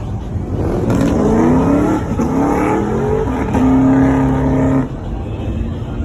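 Vehicle engine revving in several quick rising sweeps, then held at steady high revs for about a second before dropping back.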